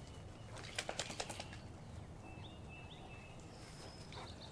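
A quick run of small clicks about a second in, from hydraulic hose couplers and their dust caps being handled. After it, birds chirp in short calls.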